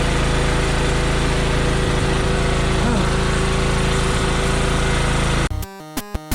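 Small gasoline engine running steadily, on barely enough siphoned fuel. About five and a half seconds in it cuts off suddenly and music starts.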